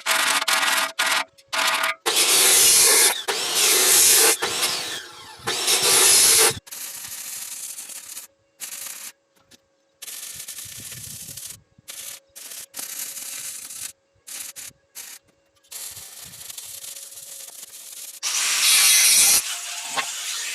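Power sanding or grinding in several loud, hissy bursts that stop and start abruptly, with quieter stretches between them.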